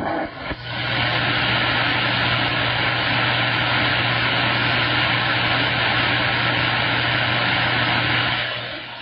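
CB radio receiver putting out loud, steady static hiss with a low hum under it, as on an open channel or an incoming carrier; it falls away to fainter band noise near the end.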